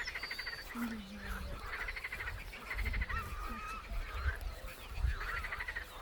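Frogs croaking in a chorus of repeated short, rapid trills, with birds whistling and chirping over them and a low rumble underneath.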